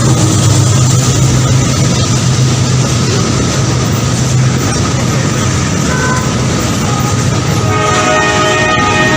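Train running with a dense, loud rumbling rush and a low steady engine tone that drops out about halfway. Near the end a train horn starts sounding.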